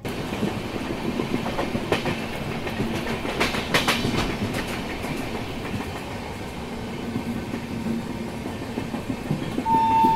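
Duronto Express passenger train running at speed, heard from an open coach doorway: a steady rumble of wheels on rail with clickety-clack over the rail joints, sharpest about 2 to 4 seconds in. A steady horn note starts just before the end.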